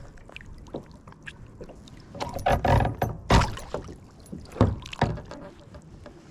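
Irregular knocks and scuffs against a kayak hull as a hooked redfish is brought to the boat and landed, with a cluster of louder hits in the middle.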